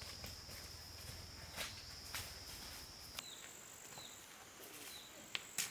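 Insects trilling steadily at one high pitch, which about three seconds in gives way to a still higher trill, while a short chirp starts repeating roughly every three-quarters of a second. A few sharp clicks, the loudest near the end.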